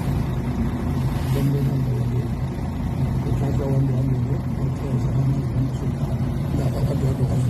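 Motor vehicle engine running steadily at idle, a constant low hum.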